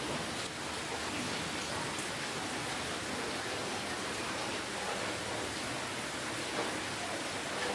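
Steady rainfall: an even hiss of rain with faint scattered drops.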